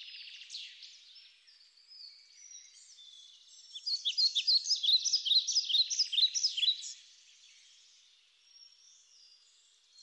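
Small birds chirping and singing in a high, quick, overlapping chorus, densest and loudest in the middle, then thinning out.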